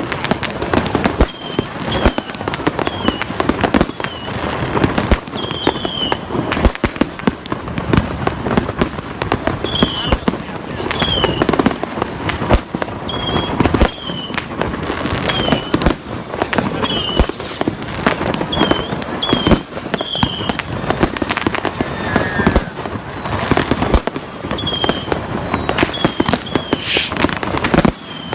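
Fireworks going off in a dense, continuous barrage of bangs and crackling, with short high chirps recurring throughout.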